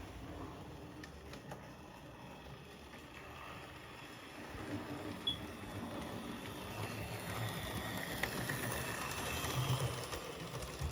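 Model train locomotive running along the track, its small electric motor and wheels making a steady whir and rumble with a few faint ticks, getting louder in the second half.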